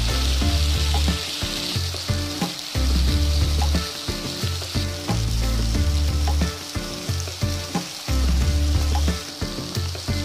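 Chicken, tomato and chili pieces sizzling as they fry in a wok, a steady hiss with scattered clicks and knocks of stirring. Under it, a loud low rumble comes and goes every second or so.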